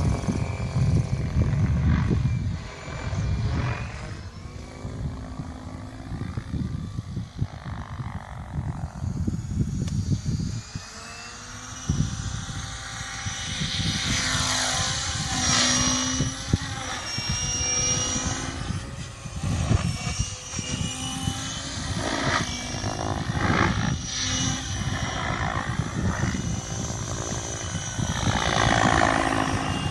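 Mikado Logo 600 electric RC helicopter in flight: the main rotor blades swish and the drivetrain whines. The sound rises and falls in loudness and pitch as it manoeuvres and passes, with the tones stepping up and down.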